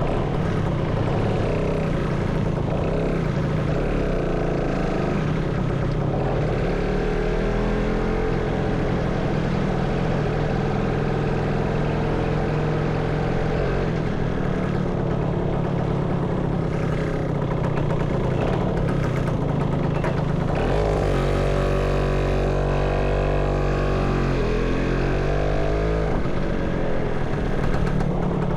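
Motorcycle engine running under way, its pitch rising and falling with the throttle and gear changes. A deeper engine note swells about 21 seconds in and drops away near 26 seconds.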